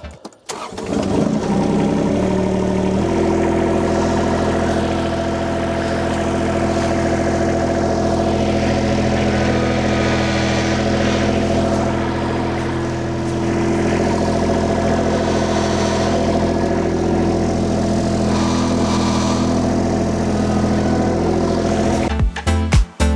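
Diesel engine of a Kymron XTL 30 mini skid steer starting up, climbing in speed in a few steps over the first three seconds, then running at a steady speed.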